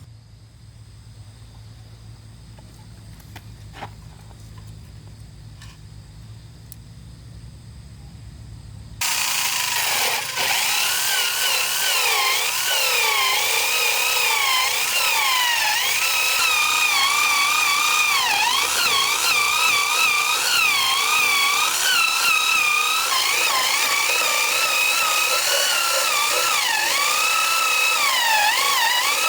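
A low hum with a few light taps, then about nine seconds in a handheld power tool starts suddenly and runs loudly. Its motor whine keeps dipping and rising in pitch as the tool works.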